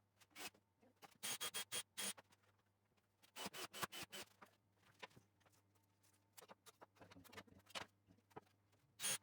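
Short scraping strokes in quick runs of five or six, with a few single scrapes between them.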